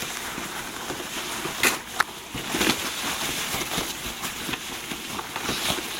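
Handling noise as drone parts and packaging are moved about, with a few sharp plastic clicks, two of them close together about two seconds in.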